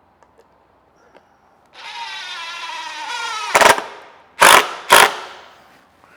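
Cordless power driver driving a screw into wood: a motor whine for about two seconds, then three short loud bursts as the screw is driven home.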